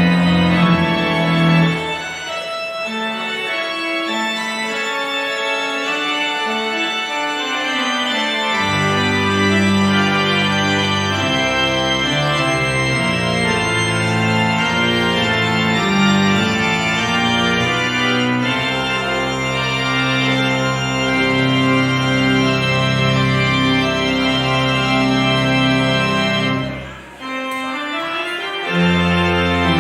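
Church organ playing sustained full chords as music after the service's dismissal. The low bass notes drop out about two seconds in and come back a few seconds later, and there is a brief break in the music near the end.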